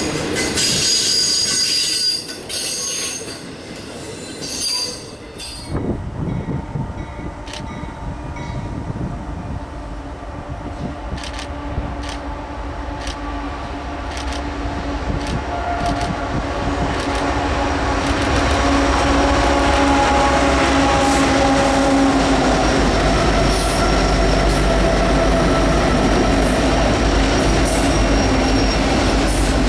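Train wheels squealing on the rails for the first couple of seconds, then a Union Pacific train approaching, with scattered clicks from its wheels, and growing louder until its locomotives and cars pass close by with a steady running sound over the last ten seconds.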